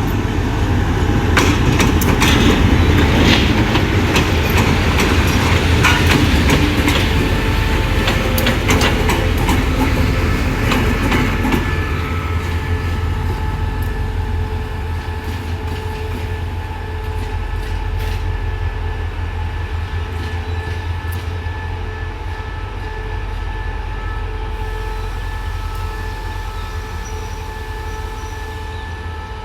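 A train moving on the tracks: its wheels click sharply over the rail joints for about the first twelve seconds, over a steady low engine rumble. The rumble carries on after the clicking stops and slowly grows quieter.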